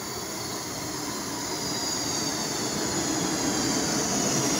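SEPTA Regional Rail electric commuter train pulling into the station, growing steadily louder as it nears, with a high whine that slowly falls in pitch as it slows.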